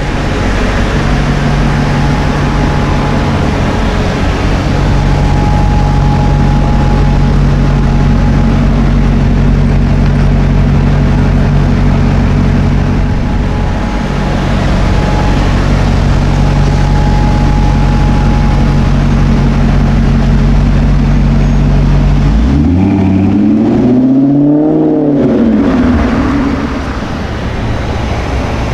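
Car engine idling with a steady low hum, then revved once near the end, the pitch climbing and falling back over about three seconds.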